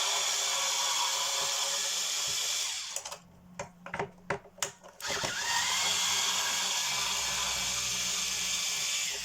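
Cordless power drill running in two bursts, each spinning up to a steady whine, the first about two and a half seconds long and the second about four, with a few clicks in the pause between.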